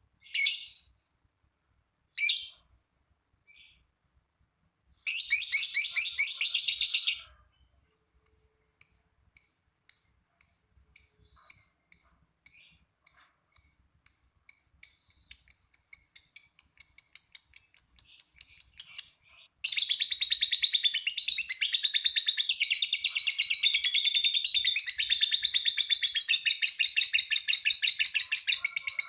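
Lovebird singing its long 'ngekek' song: a few separate shrill chirps, then a string of sharp notes that quicken into a trill, and from about two-thirds of the way in an unbroken, rapid, high chatter.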